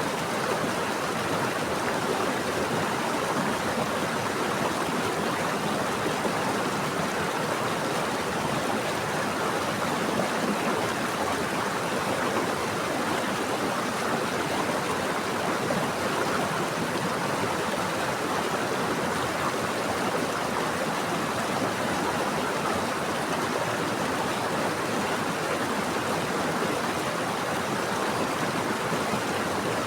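Running water of a stream, a steady even rush with no breaks or separate splashes.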